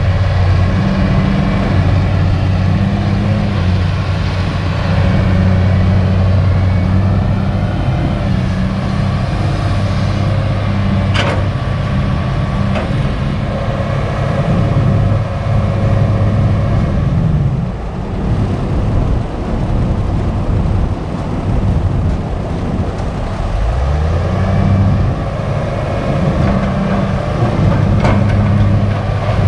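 Kobelco SK200 excavator's diesel engine running under working load. Its pitch sinks about halfway through and climbs back a few seconds later. There is one sharp clank about a third of the way in.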